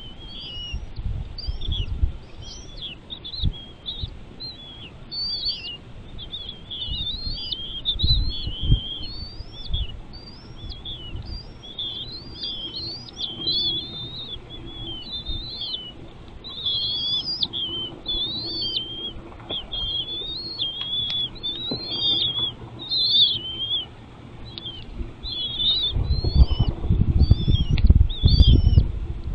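Nestling birds chirping continuously in quick, high sweeping notes. Low rustling thumps come in briefly about two and eight seconds in and grow stronger near the end.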